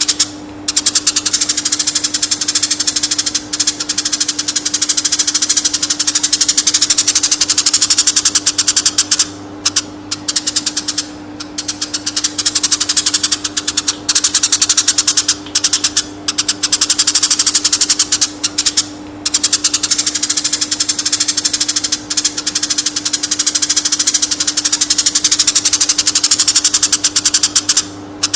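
Eurasian tree sparrow chirping rapidly and without let-up, a dense chatter broken by a few brief pauses, over a steady low hum.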